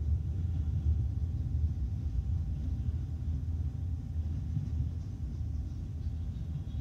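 Norfolk Southern double-stack intermodal freight train rolling past, a steady low rumble heard from inside a closed vehicle cabin.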